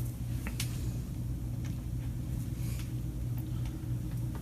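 A steady low hum that runs unchanged underneath, with a few faint clicks and rustles from handling the extension cord.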